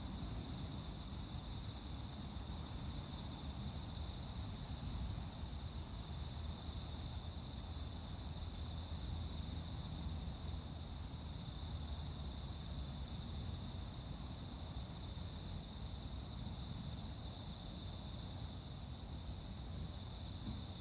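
A steady chorus of crickets and other singing insects: continuous high trills with a faster pulsing chirp among them, unchanging throughout, over a low rumble.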